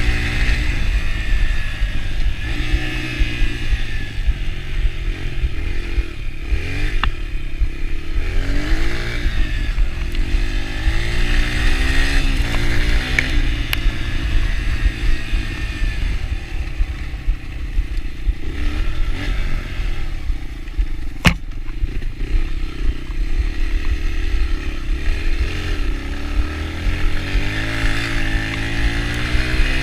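Yamaha TT-R125 dirt bike's single-cylinder four-stroke engine running under way, its pitch rising and falling again and again with the throttle. A single sharp knock comes about two-thirds of the way through.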